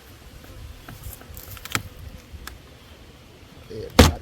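A propolis-sealed beehive being prried open: a few scattered clicks and creaks, then one loud sharp crack near the end as the sealed joint breaks free.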